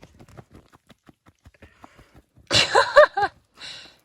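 Faint quick clicks and rustling, then a short wordless vocal sound from a person: a high laugh-like squeal with three quick rises and falls in pitch, followed by a brief breathy hiss.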